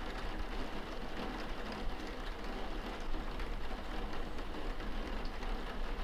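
Steady rain on window glass heard from indoors, an even patter over a low rumble, with faint scattered drop ticks.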